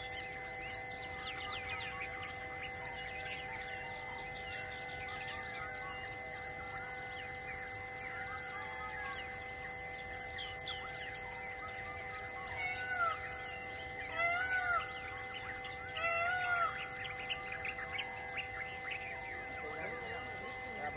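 Forest birds chirping and calling, loudest in a few rising-and-falling calls about two-thirds of the way through, with a high note repeating about once a second. Underneath runs a steady, even drone.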